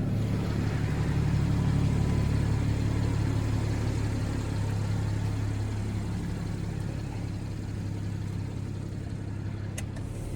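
Car engine idling steadily with a low, even hum, easing slightly in the second half.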